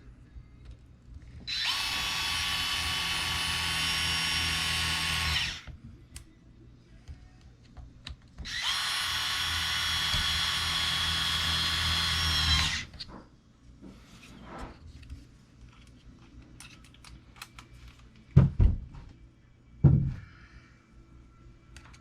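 Small power drill running in two steady bursts of about four seconds each, driving screws into an RC truck during reassembly. Two sharp knocks follow near the end.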